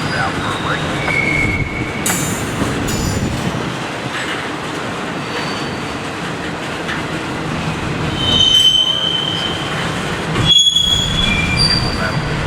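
Train cars rolling past, with steel wheels squealing against the rail in short high tones that come and go at several pitches, loudest in the second half.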